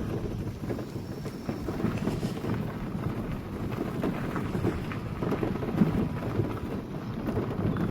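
Car tyres rolling over a gravel road: a steady low rumble thick with small crackles of crunching stones.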